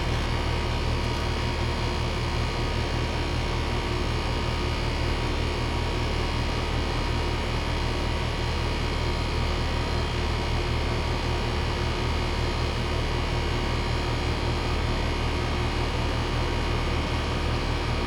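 Outdoor central air-conditioner condenser running steadily: a low compressor hum under the even whoosh of the condenser fan.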